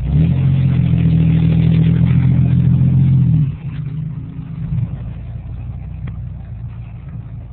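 Pickup truck engine run hard at high revs, held steady for about three and a half seconds, then the throttle is let off and it drops to a lower rumble.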